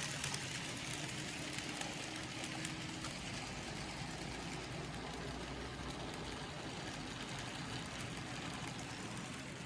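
N gauge model trains running on a layout: a steady whir of small electric motors and wheels rolling on the track.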